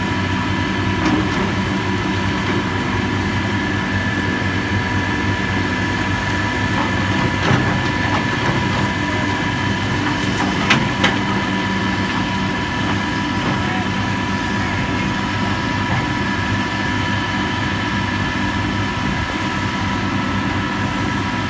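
A heavy diesel engine running steadily with a constant whine, with a couple of sharp knocks about a third and halfway through.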